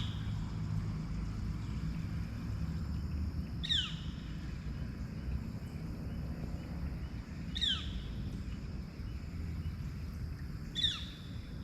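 A wild bird's short, clear, downslurred whistle, repeated four times about every four seconds, over a steady high thin drone and a low rumble.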